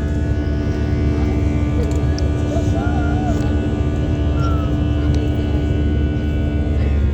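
Airplane engines giving a loud, steady drone with a constant hum, with faint voices audible in the background partway through.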